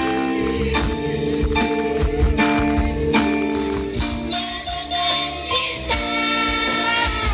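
Music with a steady beat, played loud through a PA sound system during a sound check.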